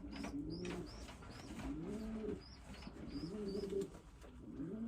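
Racing pigeons cooing in the loft, several overlapping low coos one after another, with a run of short high chirps over them in the first half.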